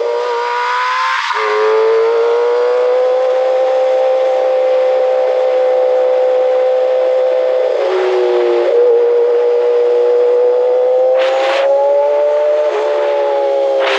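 Kawasaki ZX6R's inline-four engine running at high revs under way, its note holding steady and slowly climbing, with sharp drops in pitch about a second in and again about eight seconds in. Short bursts of wind rush come near the end.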